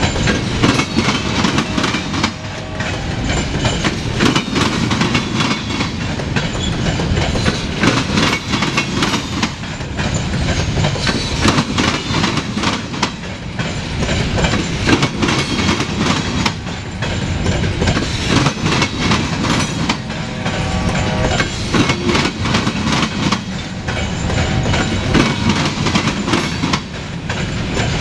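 Freight train of covered hopper cars rolling past close by, steel wheels clattering rhythmically over the rail joints with a steady rumble.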